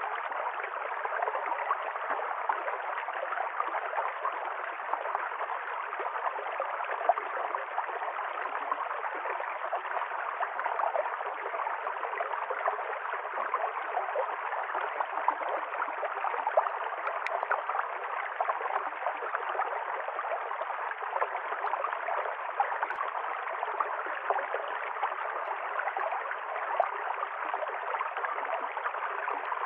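River stream flowing, a steady even rush of water with fine gurgling throughout.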